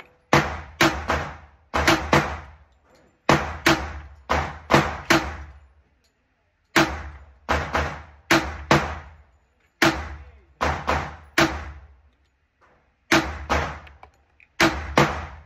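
Handgun shots fired in quick strings of two to five, about two dozen in all, each crack followed by a brief echo, with short pauses between the strings.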